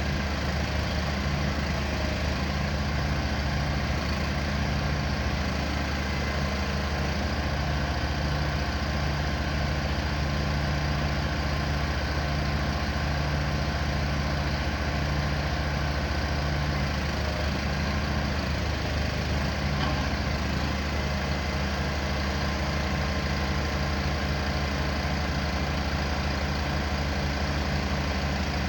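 An engine running steadily at an even speed, a constant low drone with no revving.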